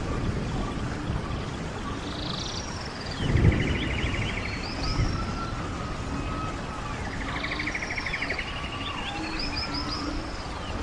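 Running stream with a steady rush of water and birds singing over it: rapid buzzy trills twice, and short high swooping whistles. The water surges louder about three and a half seconds in.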